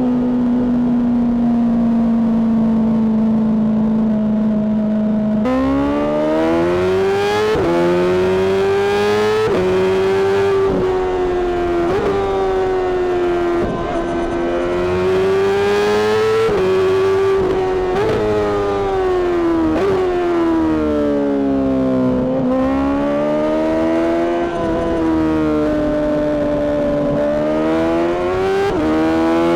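Honda CBR600RR's inline-four engine through a Mivv exhaust while riding: it holds a steady, slowly falling note for about five seconds, then pulls hard, its pitch climbing and dropping sharply again and again as it shifts through the gears, with slower falls and rises as the throttle is eased and reapplied.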